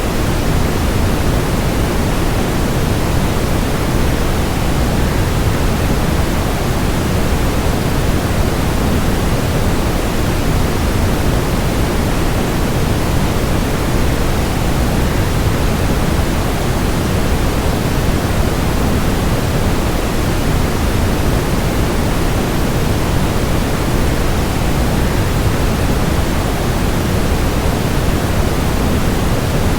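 Waterfall sound blended with white noise: a steady, even rushing that is fullest in the low end and never changes.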